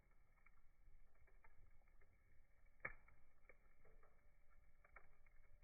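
Campfire crackling faintly: scattered small pops and ticks of burning wood, the sharpest about three seconds in.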